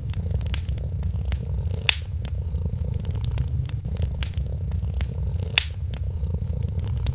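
A cat purring steadily, with a wood fire crackling over it in scattered sharp pops, the loudest about two seconds in and again a little after five and a half seconds.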